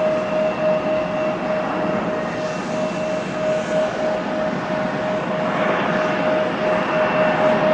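Regional jet airliner landing: steady jet engine noise with a constant, slightly pulsing whine, growing a little louder near the end.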